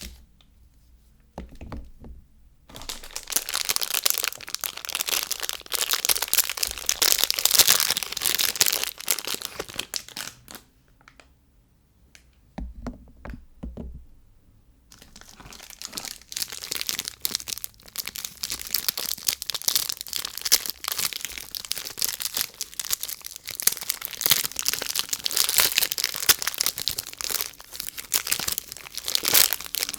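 Soap packaging being crinkled and torn open by hand: a dense run of crinkling and crackling, paused once near the start and again for a few seconds in the middle.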